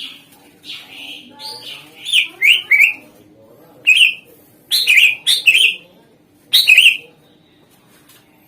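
Cucak ijo (green leafbird) singing: loud, sharp chirped phrases of short notes that drop in pitch, in clusters about two seconds in, around four to five and a half seconds, and again near seven seconds, then a pause. A faint steady low hum lies underneath.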